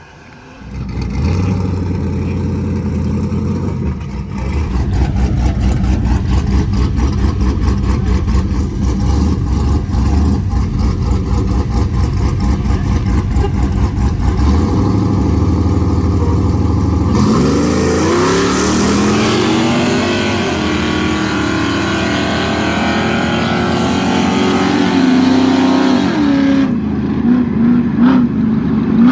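Truck engine revving hard and held at high rpm. About 17 seconds in the sound changes suddenly: the pitch climbs and a loud rushing hiss joins in.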